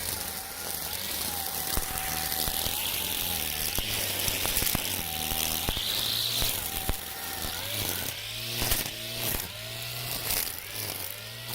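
Makita 40V battery brush cutter spinning nylon trimmer line through weeds. The motor whines steadily, then in the second half its pitch repeatedly drops and climbs back, with sharp ticks of the line striking stems.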